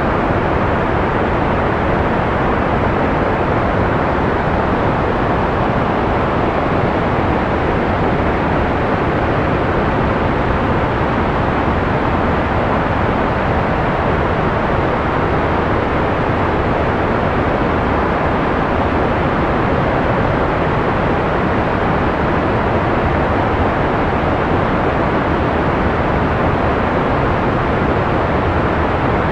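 Analog white noise playing as a steady, unbroken hiss. Most of its strength sits in the low and middle range with little treble, so it sounds soft and rushing rather than bright.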